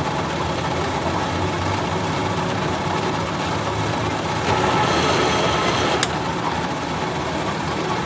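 A machine running steadily with a low hum, and a single sharp click about six seconds in.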